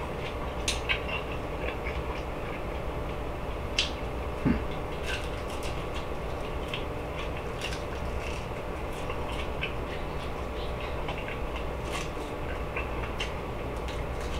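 Close-up chewing of an air-fried chicken wing: scattered small crunches and wet mouth clicks over a steady low hum.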